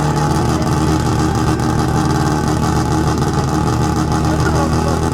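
A car engine running at a steady speed, a low, even hum that holds its pitch.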